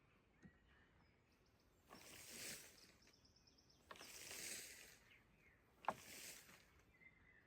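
Three soft swishing rustles about two seconds apart, with faint bird chirps between them.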